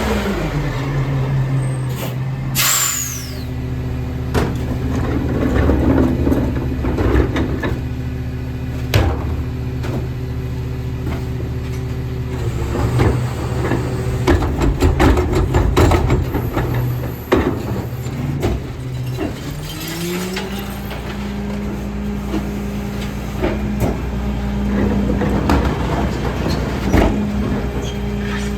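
Autocar ACX rear-loader garbage truck's diesel engine settling to idle, with a sharp falling air-brake hiss about three seconds in. Clattering and banging of recyclables being tipped into the hopper follow for several seconds. About 20 seconds in, the engine speeds up and holds a higher steady pitch, typical of the throttle advance for the packer cycle.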